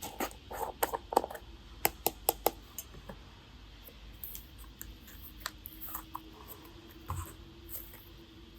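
Light clicks and taps of small hard objects being handled: a quick cluster at the start, four sharp clicks about two seconds in, then softer scattered taps.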